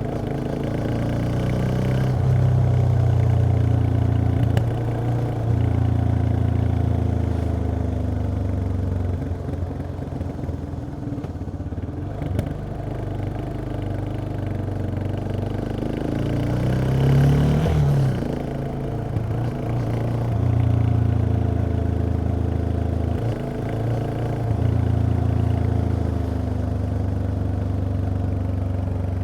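Yamaha XT 660X's single-cylinder engine running on stock exhaust while riding, its note stepping up and down several times with throttle and gear changes. About 17 seconds in the revs climb sharply and then drop back.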